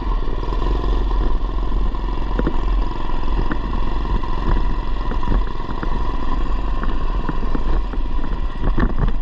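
Predator 212cc single-cylinder engine of a modified Coleman BT200x mini bike running under way through a header muffler, with frequent clicks and knocks from the bike rattling over rough ground.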